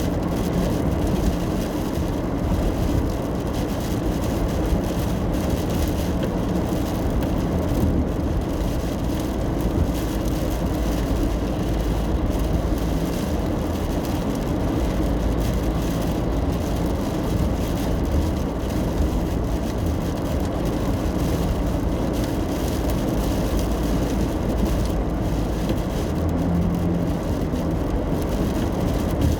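A car in motion heard from inside the cabin: a steady low drone of tyre and road noise with engine hum underneath.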